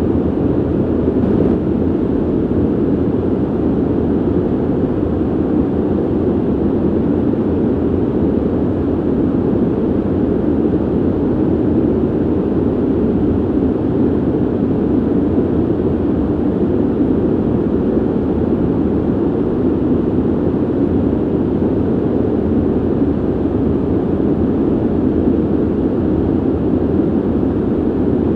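Ventilation system blowing a steady, low rushing noise of moving air, even in level throughout.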